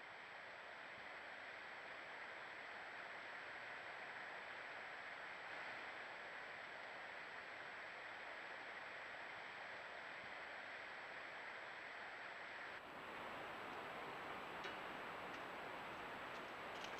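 Faint steady outdoor hiss picked up by a game camera's microphone, with a constant thin high whine. About 13 s in it cuts abruptly to a different, wider hiss with a few faint ticks.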